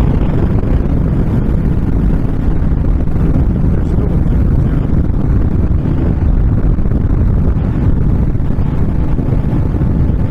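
Heavy wind buffeting the microphone on a moving motorcycle, with the Honda VTX1300's V-twin engine running steadily at cruising speed underneath.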